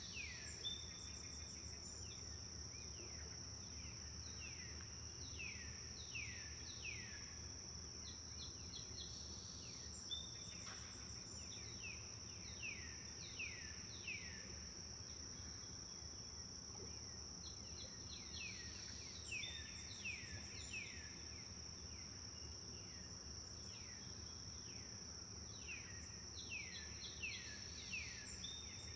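A songbird repeating phrases of quick, falling whistled notes, several notes per phrase, with pauses between phrases, over a steady high-pitched insect drone.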